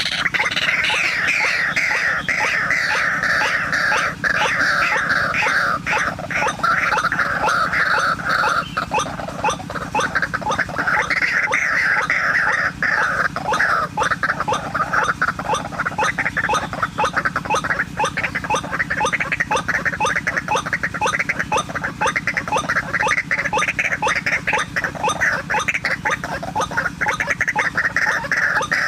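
White-breasted waterhen (ruak-ruak) calling: a fast, unbroken stream of repeated notes that swells and fades in waves, the lure call used to draw the birds in.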